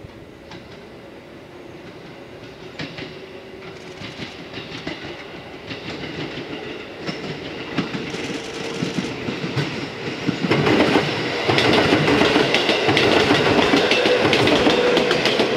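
Electric commuter train approaching and passing close by, growing steadily louder, with the clickety-clack of its wheels knocking over rail joints and a steady hum from the train.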